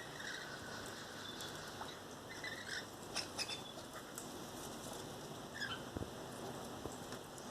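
Parrots feeding on sunflower seeds: scattered small clicks and taps of beaks cracking seeds and pecking, with a few soft, short chirps.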